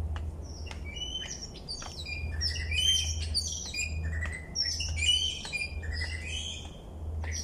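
Birds chirping in quick, overlapping short high notes, busiest from about a second in until shortly before the end, over a steady low rumble.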